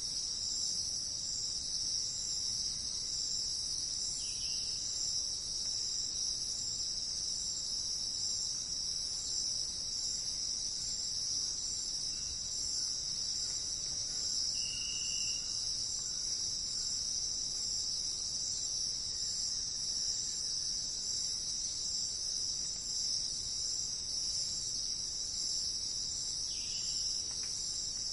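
Steady, unbroken high-pitched insect chorus, like crickets trilling, with a few faint short bird notes: one about four seconds in, one midway, and one near the end.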